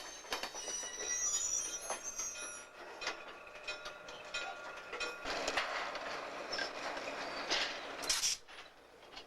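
Train of coal hopper cars rolling on the track behind a switching locomotive, steel wheels squealing in several high tones with clicks and knocks. The squeal fades after a couple of seconds into a rougher rolling noise, with a short sharp burst about eight seconds in, then it goes quieter.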